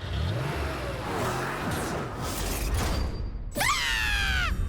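Cartoon sound effects: a rushing whoosh with gliding engine-like tones, then a sharp falling sweep about three and a half seconds in.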